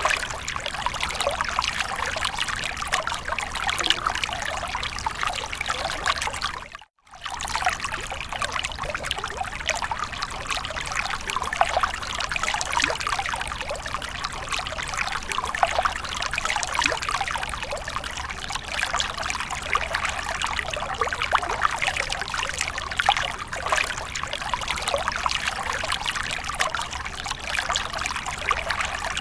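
Water splashing and trickling continuously, with a brief cut-out about seven seconds in.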